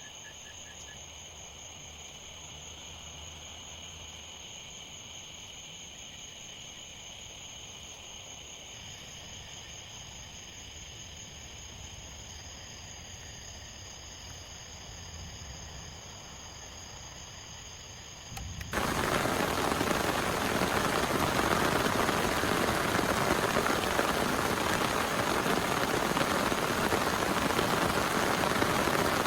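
Insects chirring in a steady high chorus over faint ambience. About two-thirds of the way through, this gives way abruptly to the loud, even hiss of heavy rain pouring down.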